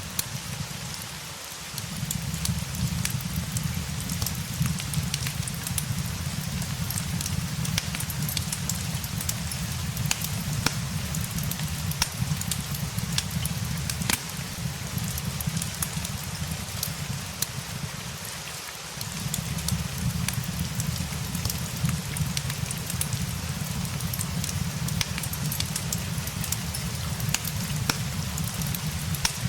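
Steady rain mixed with a crackling fireplace, scattered sharp pops and snaps of burning wood over the even hiss of the rain. A low rumble underneath fades out briefly twice, near the start and about two-thirds of the way through.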